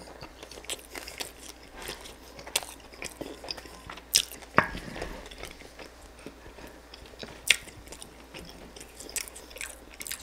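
Close-miked chewing and biting of a crispy oven-baked chicken drumstick: crackly crunches of the skin and wet mouth sounds. A few sharper, louder crunches come about four seconds in and again a few seconds later.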